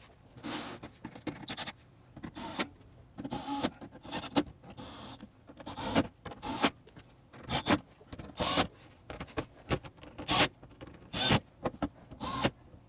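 Irregular knocks, clicks and brief scrapes of hard objects being handled and set down, a few to a second, with no running engine.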